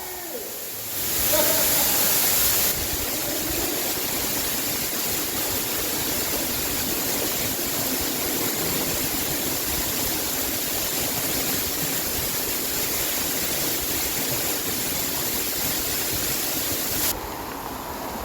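Waterfall rushing: a steady, even roar of falling water that drops a little in level near the end.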